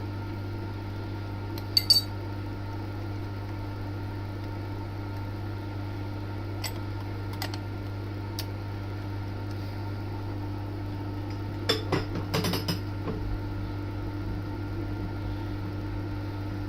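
Metal tools and drill bits clinking as they are handled, two sharp clinks about two seconds in and a cluster of them around twelve seconds, with a few faint ticks in between. A steady low machine hum runs underneath throughout.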